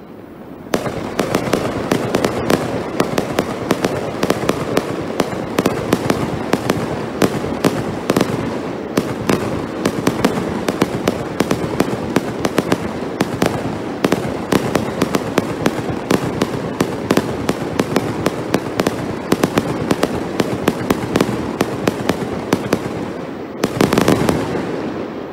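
Fireworks fired close by in a rapid barrage: a dense run of sharp bangs and crackles over a continuous rumble, starting about a second in, with a louder burst near the end.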